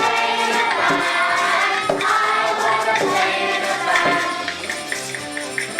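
A song: a group of voices singing over instrumental accompaniment with a steady beat.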